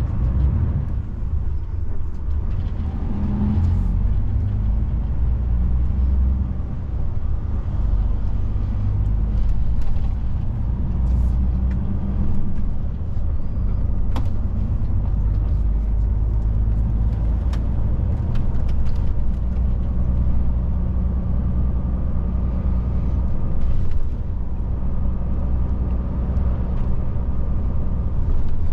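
DAF truck's diesel engine running under way, heard from inside the cab as a steady low drone whose note shifts now and then, with road noise underneath.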